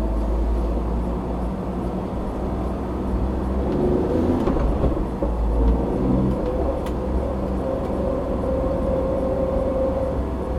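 Car driving on a road, heard through a dashboard camera: a steady rumble of engine and tyres, with the engine note rising about four seconds in.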